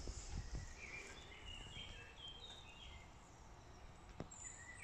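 Faint birdsong in a forest: a run of short, high chirps and whistles through the first half, over a low rumble of wind noise, with a single small click near the end.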